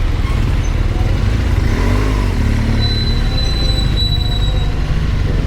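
Motorcycle running, with a loud, steady low rumble of engine and wind.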